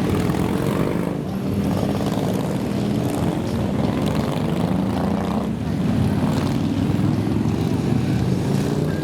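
Many motorcycle engines running as a column of riders moves off and passes by, with pitches rising and falling as bikes go past.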